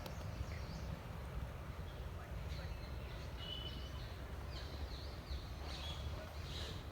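Birds chirping intermittently in short high calls over a steady low rumble. The calls become more frequent from a couple of seconds in.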